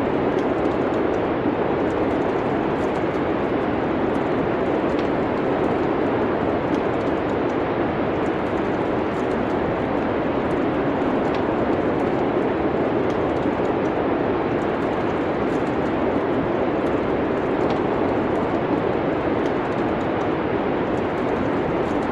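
Steady rushing wind with faint, scattered crackles and pops from a wood fire.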